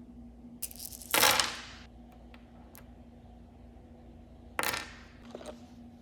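Small hard objects being handled: scattered clicks and two short clattering bursts, the louder one about a second in and another near the end, over a steady faint hum.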